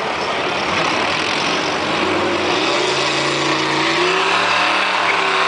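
Chevy-engined John Deere pulling tractor under load at a tractor pull, its engine revving loudly. About halfway through, a clear engine note comes up over the din and climbs slowly in pitch as the engine winds up.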